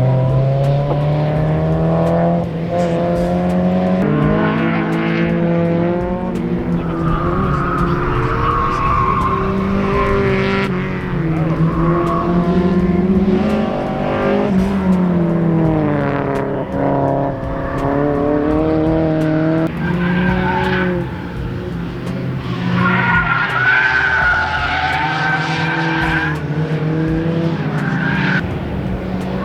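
Mazda Miata's four-cylinder engine revving up and dropping back again and again as it is driven hard through an autocross course, with tyres squealing through the corners.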